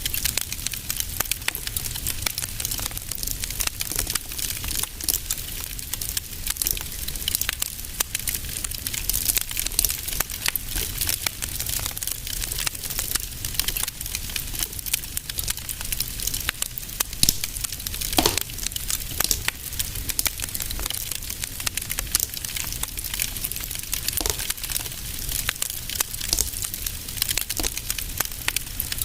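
Wood fire in a fireplace crackling continuously, with many small rapid snaps over a steady low rumble. A couple of louder pops stand out, one a little past the middle and one about three quarters of the way through.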